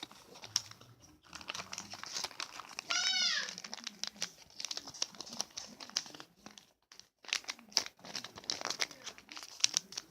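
A sheet of paper being folded and creased by hand, crinkling and crackling in short bursts. About three seconds in, a single short pitched call that rises and falls, like a meow, stands out over the paper.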